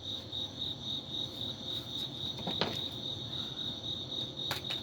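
A cricket chirping steadily in a fast, even, high-pitched pulse, with two short clicks about halfway through and near the end.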